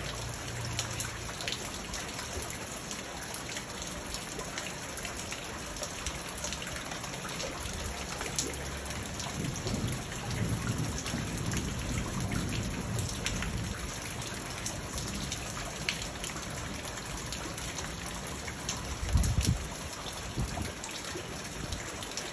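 Steady rain pattering on a garden pond's water and the rocks and leaves around it, with many single drops ticking close by. Thunder rumbles low about halfway through, and a short low boom near the end is the loudest moment.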